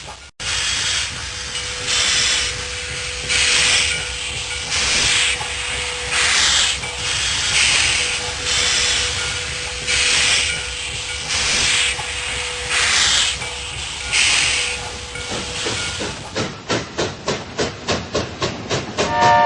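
Steam locomotive chuffing from a model steam train: hissing exhaust beats about every 0.7 s with a faint steady whine under them. About 16 seconds in, the sound changes to much faster, sharper chuffs, about four a second.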